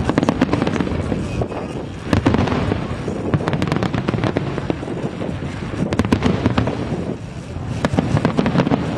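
Fireworks display going off: a continuous barrage of bangs and rapid crackling over a rolling rumble, thickest about two seconds in and again from about six seconds on.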